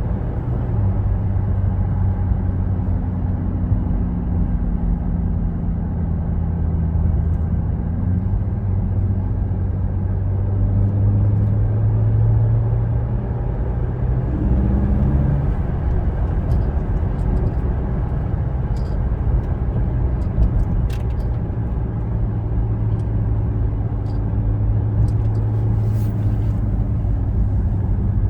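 Ferrari 458's V8 engine running at a steady low speed. From about halfway through come scattered short sharp clicks of the kind the owner likens to marbles hitting each other when the steering wheel is turned.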